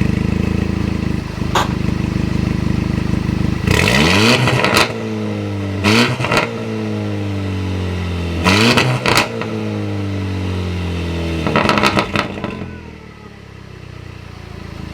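Car engine idling, then revved sharply four times, the revs falling back after each blip, with brief crackling at each rev; the engine sound fades near the end.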